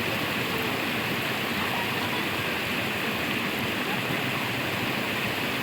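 Steady rush of flowing forest water, even and unbroken, with a few faint short chirps over it.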